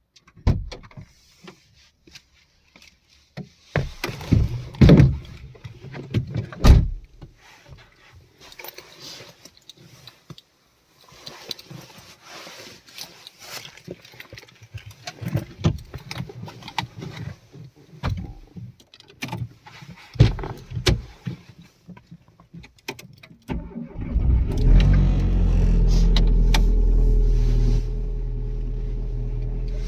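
Scattered clicks, knocks and rustling inside a Renault Twingo, then about 24 seconds in its engine starts and runs at a steady idle, settling a little quieter near the end.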